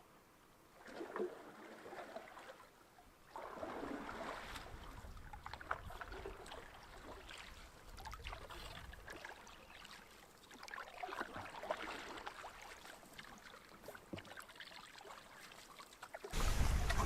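Canoe paddle strokes in calm lake water, a splash and trickle every few seconds. Near the end, wind buffets the microphone loudly.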